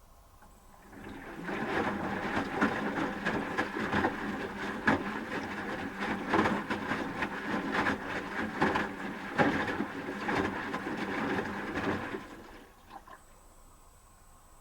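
Asko Quattro W6098X washing machine drum turning during the wash phase, laundry tumbling and water sloshing with many small knocks. It starts about a second in and stops near the end as the drum pauses between turns.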